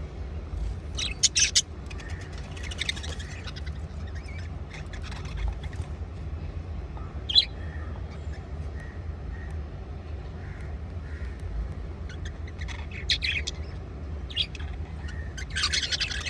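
A group of budgerigars chattering, with scattered short chirps and sharp squawks, the loudest about a second in and near the end, over a steady low hum.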